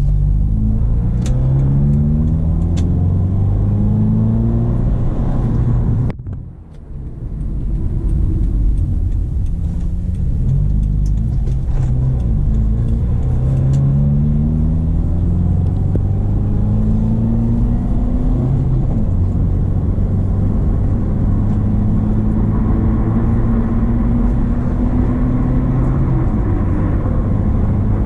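Subaru Impreza XV 2.0's boxer four-cylinder engine pulling uphill under load. The revs climb and drop back again and again through the manual gears, with a brief dip in the sound about six seconds in.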